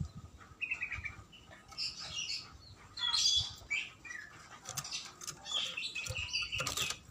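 Oriental magpie-robin singing in short, varied phrases of whistled and chirping notes, with brief pauses between them.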